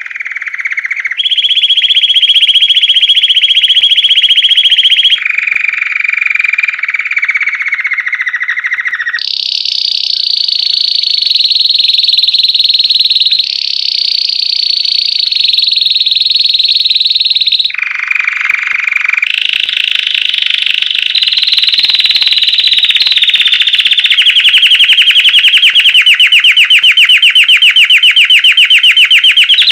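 White Belgian canary singing a continuous song of rapid trilled notes, in the classic 'campainha' (bell) style. Each trill is held a few seconds before it jumps to a new pitch, and near the end the trill turns very fast and high.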